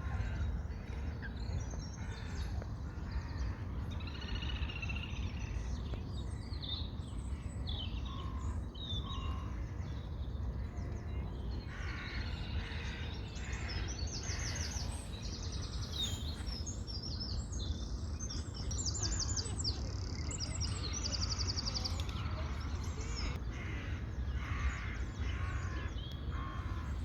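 Several songbirds singing and calling, with rapid trilled phrases about halfway through and again a few seconds later, over a steady low rumble.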